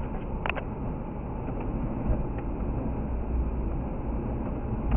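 Car interior road noise on a snow-covered street: a steady low rumble of tyres and engine, with a brief click about half a second in.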